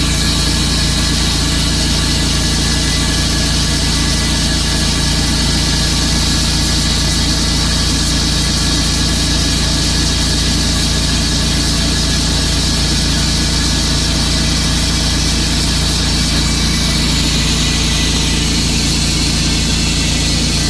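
Sawmill's engine running steadily, with a constant low hum and a dense hiss from the running saw.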